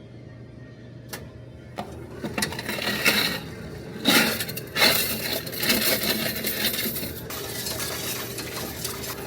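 Loose coins being fed into a Coinstar coin-counting kiosk, clinking and rattling continuously as they tumble through the machine, starting about two seconds in.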